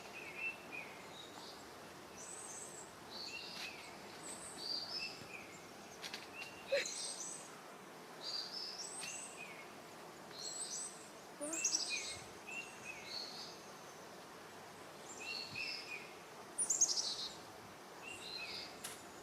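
Songbirds singing: short phrases of high chirps repeated again and again, with a few louder, sharper bursts, over a steady outdoor background hiss.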